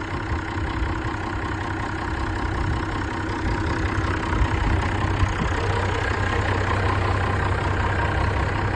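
BMC 5.1-litre diesel engine in a Nuffield 10/42 tractor idling steadily.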